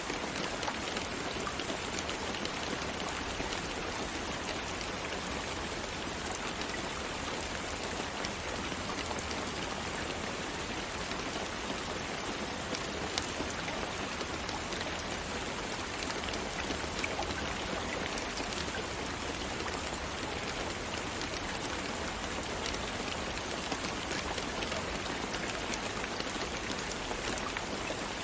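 Steady rain falling, with many small individual drop ticks over an even hiss.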